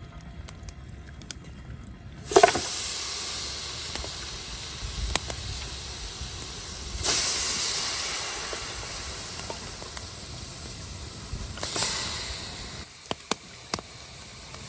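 Mutton sizzling on a hot cooking surface: a loud hiss starts suddenly about two seconds in, slowly fades, surges again twice, then drops away near the end, with a few small clicks after it.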